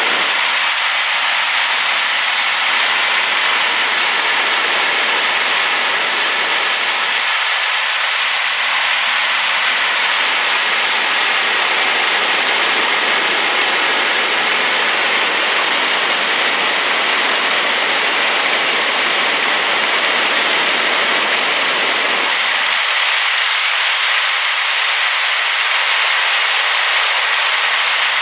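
Waterfall swollen with rain, pouring with a loud, steady rush like white noise. Its deeper part drops away for a few seconds early on and again near the end.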